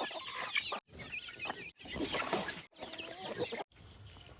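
Chickens clucking and chirping, many short calls at once, cut into four brief stretches by short silences.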